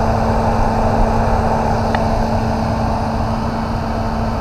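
2005 Dodge Durango's 4.7-litre V8 idling with its engine-driven cooling fan spinning on a newly fitted fan clutch: a steady whir over a low engine rumble. A faint click about two seconds in.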